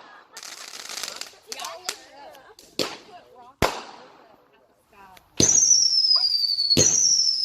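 Consumer fireworks going off: a few sharp bangs and some crackle, then, from about two-thirds through, loud whistling fireworks, each shriek falling slowly in pitch and overlapping the next, mixed with pops.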